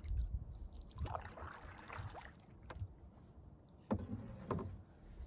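Faint canoe paddling: paddle strokes swishing through the water about a second in, then a couple of sharp knocks near the end, over a low rumble.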